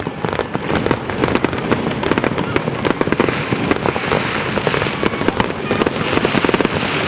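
Fireworks display going off in a continuous barrage: many sharp bangs and cracks every second, thickening into a dense crackle toward the end.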